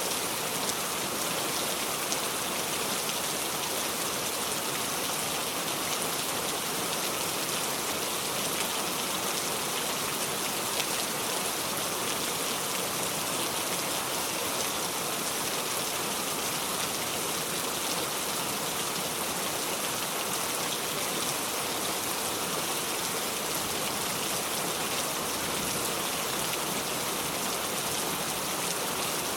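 Steady heavy rain falling, a constant even hiss of drops with no thunder.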